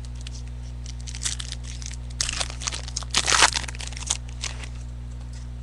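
Trading cards and their foil pack wrapper being handled, with short bursts of crinkling and rustling as cards are slid and shuffled. The loudest burst comes about three and a half seconds in. A steady low hum runs underneath.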